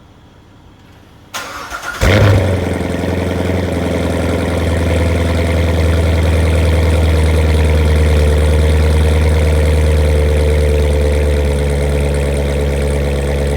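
Chevrolet Corvette C7's 6.2-litre V8 with NPP performance exhaust cold-started at 37°F: the starter cranks briefly, the engine catches with a loud flare, then settles into a steady high cold idle that drops a little near the end.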